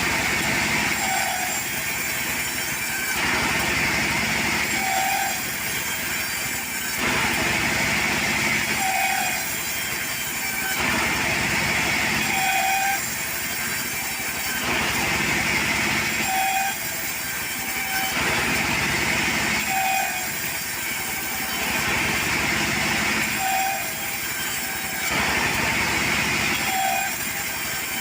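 A portable sawmill running, its saw cutting in repeated passes. The noise swells and eases about every four seconds, with a short tone at each change.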